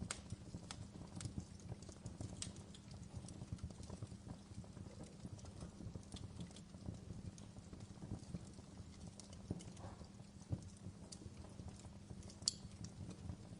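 Wood fire crackling in a fireplace: irregular small pops and snaps over a low steady hum, with one sharper pop near the end.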